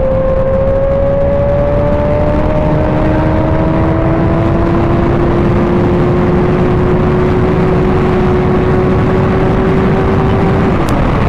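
Sport motorcycle engine at highway speed under a steady rush of wind noise. The engine note climbs slowly as the bike accelerates, then drops quickly near the end.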